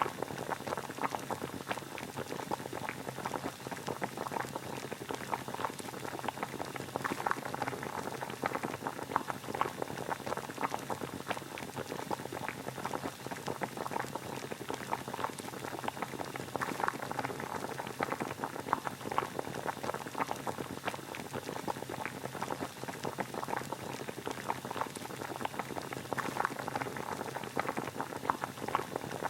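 Water at a steady boil: a continuous dense bubbling and popping that does not change.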